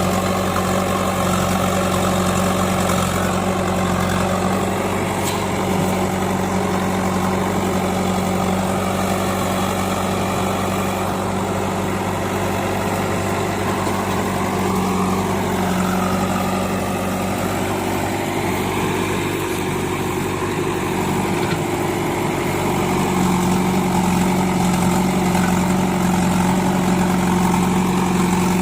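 Diesel engine of a backhoe loader or tractor running steadily at low speed. Its steady note weakens for a few seconds past the middle, then comes back.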